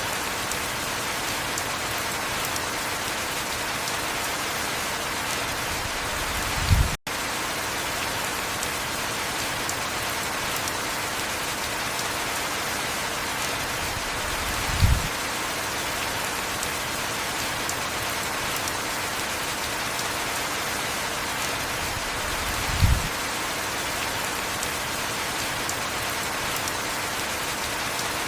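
Steady heavy rain falling, an even hiss of drops. A short, low thump comes about every eight seconds, three times, and the sound cuts out for an instant after the first one, about seven seconds in.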